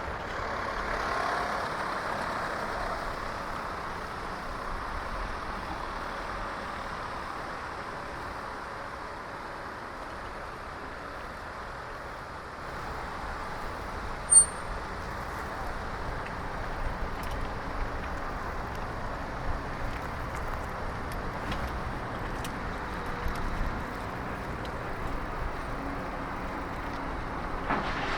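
Road traffic heard from a bicycle on a city street: a steady rush of passing vehicles and tyre noise. About halfway through comes one short, sharp, high-pitched chirp, and a few small clicks follow in the second half.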